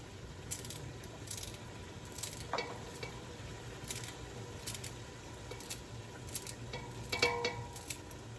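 Knife strokes knocking at an irregular pace, about one a second, as celery is cut up, with a couple of ringing clinks of metal kitchenware among them. A steady low hum runs underneath.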